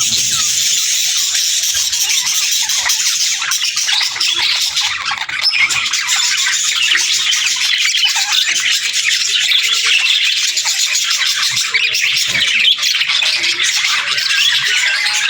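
Budgerigars chattering and warbling nonstop, a dense stream of quick chirps, twitters and squawks.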